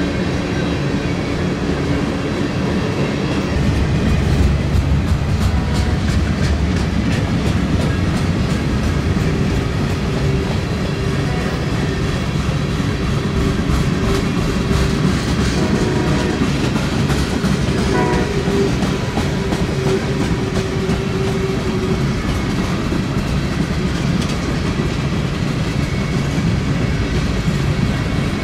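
Freight cars of a manifest train rolling past at speed, a steady rumble with wheels clacking over the rail joints.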